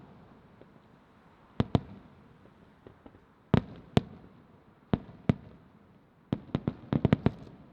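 Aerial firework shells bursting, sharp booms each followed by an echoing tail: a pair about a second and a half in, two more near four seconds, two around five, then a rapid cluster of about six near the end.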